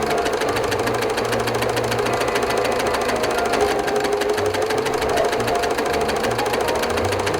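A machine running with a fast, steady rattle.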